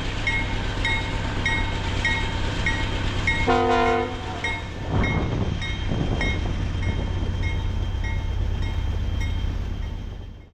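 Diesel locomotive rumbling by at low speed while a bell rings steadily about twice a second; about three and a half seconds in, the locomotive's horn gives one short blast as a salute.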